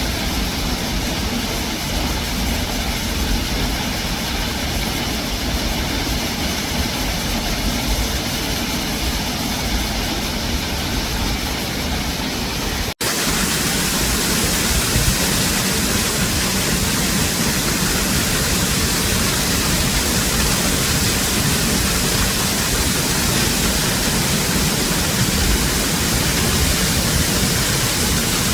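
Waterfall's rushing water, a steady dense roar with deep rumble. About halfway through it cuts out for an instant and comes back louder and hissier, as if from closer to the falling water.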